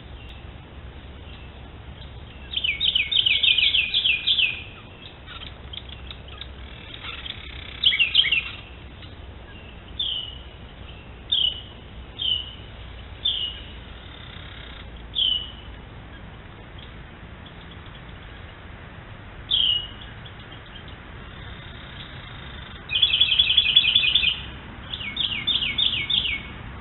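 Wild birds calling in the woods: several bursts of rapid, repeated high chirps lasting a second or two each, with single short falling chirps scattered between them.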